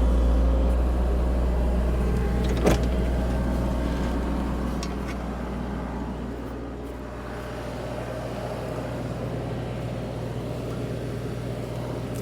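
Diesel engine of a CAT 304 E2 mini excavator running under work, with one sharp knock a few seconds in. The engine sound eases off after about four seconds and then runs steadily.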